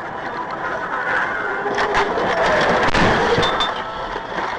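Car collision: several sharp crunching impacts and breaking sounds about two to three and a half seconds in, over continuous road and vehicle noise.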